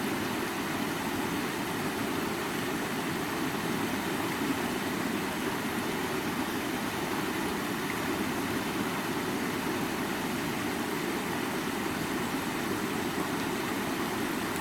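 Creek water flowing steadily over rocks: an even, unbroken rushing with most of its weight low in pitch.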